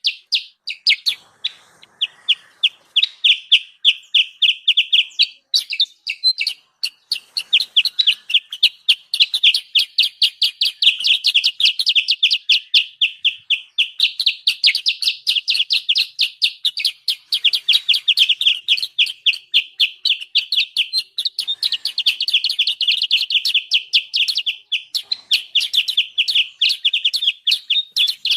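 Kutilang sutra (a bulbul) giving an agitated, noisy chatter in a lure recording used to call wild birds in. It is a fast, unbroken run of sharp chips, several a second, with only brief breaks.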